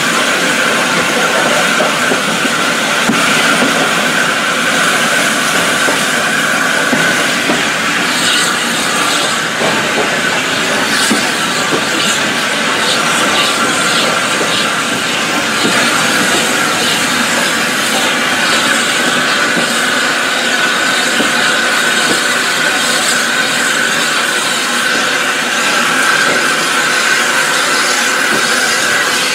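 Running noise of a moving train heard from an open coach window: wheels on the rails, with a steady high tone throughout and a run of clicks about a third of the way in.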